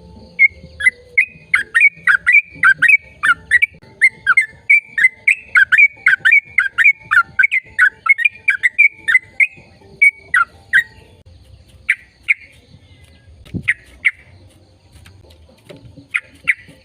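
A bird calling close by: a fast run of short, sharp chirps, about three a second, for some ten seconds, then a few scattered chirps.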